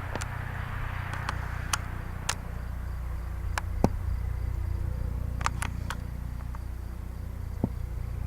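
Steady low drone of a distant helicopter, with scattered short sharp chirps or clicks over it.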